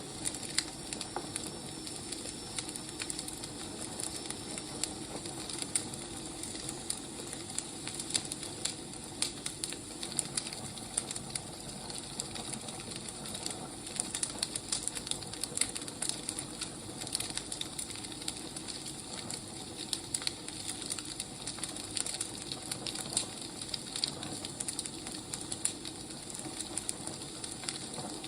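Wood fire burning, with a steady hiss and frequent irregular crackles and pops of the firewood.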